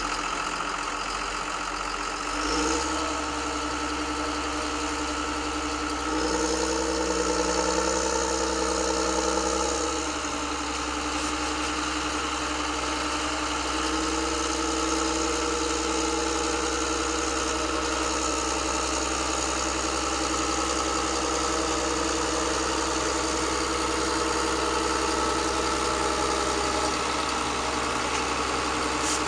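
Radio-controlled model construction machines running: a steady engine-like hum with a motor whine that shifts in pitch and strength a few times, about 2.5, 6, 10 and 14 seconds in.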